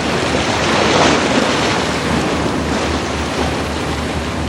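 A loud rush of sea and wind noise that begins suddenly and swells about a second in, then holds steady.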